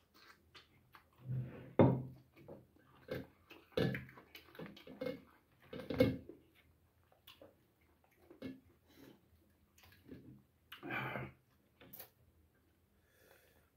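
Close-up eating sounds of boiled goat head: irregular chewing and lip-smacking, with meat torn from the head by hand.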